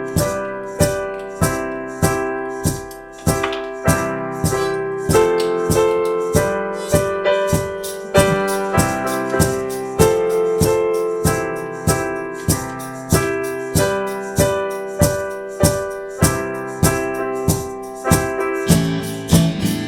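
Keyboard music: piano-like chords and melody played over a steady, evenly spaced beat, with no singing; the bass notes shift near the end.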